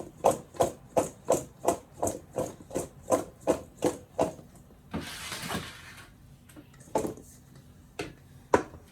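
Seasoned potato wedges being tossed in a bowl, knocking against it in a steady rhythm of about three knocks a second that stops about four seconds in. A short rustling noise follows, then a couple of single knocks.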